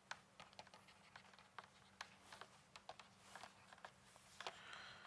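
Near silence with faint, irregular light clicks of typing on a computer keyboard, over a faint steady hum.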